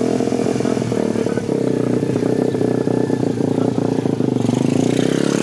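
Dirt bike engine running at a steady speed close by, with a rapid, slightly rattly beat.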